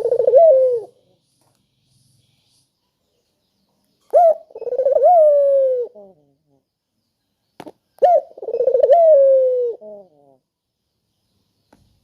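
Puter dove cooing: the end of one coo, then two full coos about four seconds apart, each a short note followed by a long drawn-out note that rises and then slides down.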